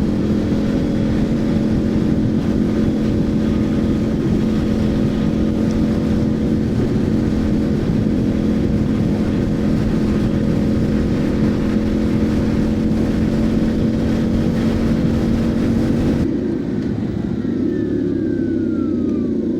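Motorcycle cruising at a steady engine speed under heavy wind rush on the microphone. About sixteen seconds in the wind noise drops away, the engine note wavers and a faint whine falls in pitch as the bike eases off.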